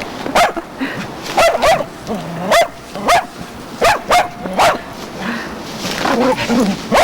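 A dog barking repeatedly in short, sharp barks, most of them in the first five seconds.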